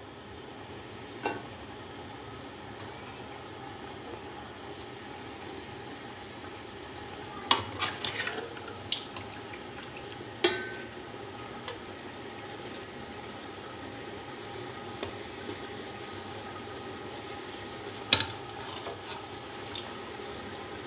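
Chicken pieces frying in hot oil and yogurt masala in a metal pot: a steady sizzle, broken by a handful of sharp clinks of the metal slotted spoon against the pot.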